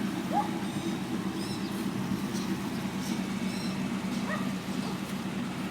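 The 1999 Mitsubishi Lancer GLXi's 1.6-litre SOHC four-cylinder engine idling steadily, a low even hum. A few faint short squeaky chirps sound over it, twice more plainly, about half a second in and about four seconds in.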